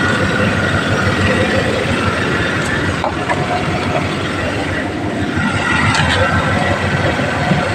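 GMC Savana van's engine running steadily at idle, with a faint high whine on top.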